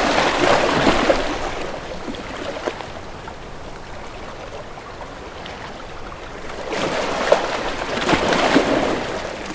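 Sea waves washing and lapping, with small splashes. The wash swells at the start, dies down through the middle, and surges again near the end.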